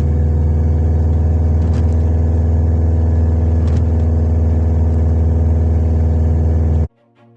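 Subaru Impreza WRX turbocharged flat-four boxer engine running steadily at an even, unchanging pitch with its rumble. It cuts off suddenly near the end.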